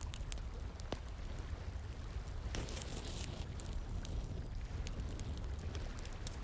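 Wood fire crackling with scattered sharp pops over the steady rush of flowing water, with a brief louder hiss about two and a half seconds in.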